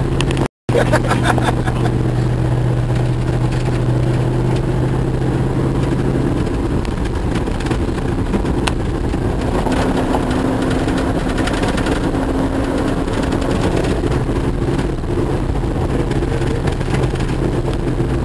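Old Jeep driving on a rough dirt logging road, heard from inside the cab: a steady engine drone that changes pitch about six seconds in, over road noise and knocks and rattles from the body.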